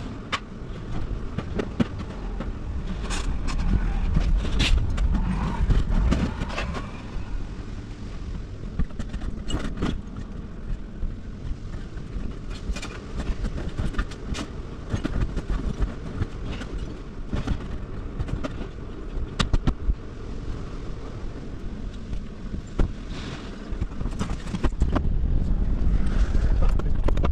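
A vehicle running with a low rumble and many sharp metallic clanks and rattles over it; the rumble grows louder near the end.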